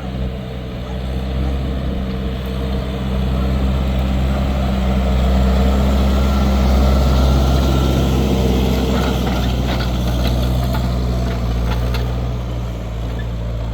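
New Holland TL100 tractor's diesel engine running steadily under load while pulling a plough through hard, compacted soil. It grows louder toward the middle, then eases a little, with a few light rattles in the second half.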